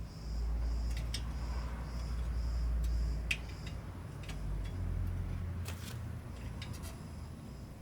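Hand-tool work on a motorcycle exhaust: a dozen or so scattered light metallic clicks and ticks at irregular spacing over a low rumble.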